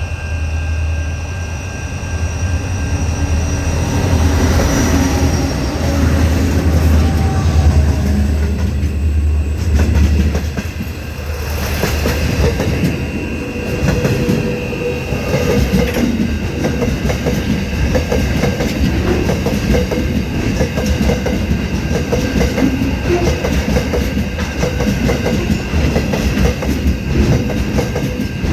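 Aurizon freight train passing: a deep rumble for the first ten seconds or so, then a steady clatter of wagon wheels over the rails.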